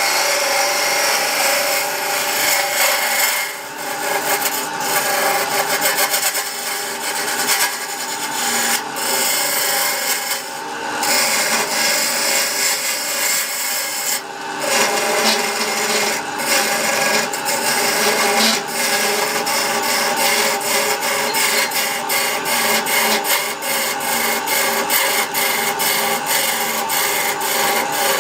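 Wood lathe spinning a wooden blank while a turning tool or abrasive scrapes against it, a steady rasping with a faint hum underneath. The scraping drops out briefly a few times, and breaks off often in the second half as the tool is lifted and set back down.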